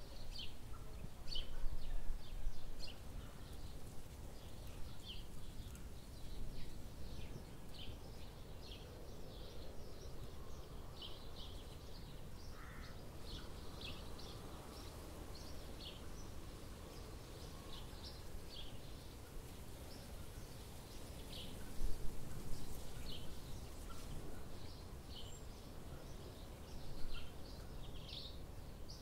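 Small birds chirping in short high notes, one or two a second, over a steady low outdoor rumble, with a couple of brief low bumps.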